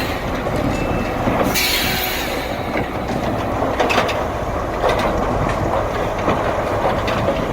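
Heavy vehicle rumbling steadily with metallic clanking and rattling, and a short burst of hiss about a second and a half in.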